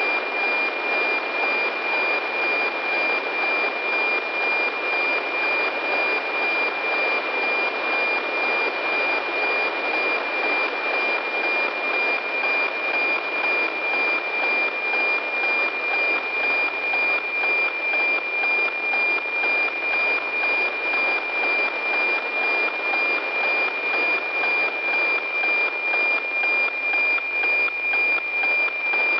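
NOAA-15 weather satellite APT signal heard through a radio receiver: a steady 2.4 kHz tone over static hiss, with a regular tick-tock about twice a second as the image lines are sent.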